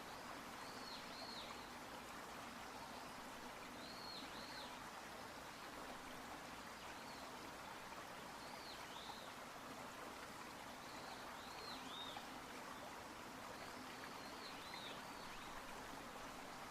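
Faint steady rush of flowing river water, with a small bird's short, high, arched chirps, often in pairs, every two to three seconds.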